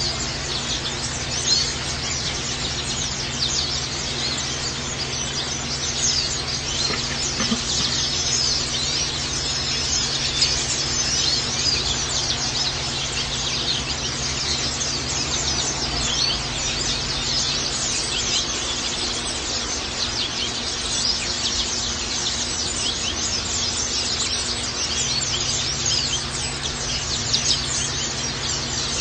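A flock of white-eyes (pleci) twittering without pause in rapid, high chirps, over a steady low hum.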